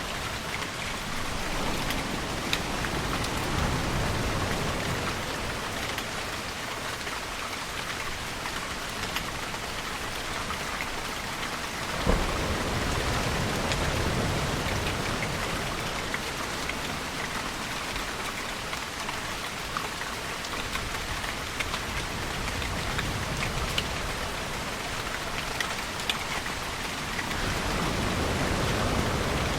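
Steady rainfall with scattered drop ticks, over low rumbling swells that rise and fall every several seconds. A sharp crack of thunder comes about twelve seconds in, followed by a low rumble.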